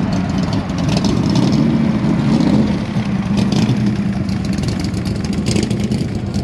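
Car engine running with a low, steady rumble, a little louder between about one and two and a half seconds in.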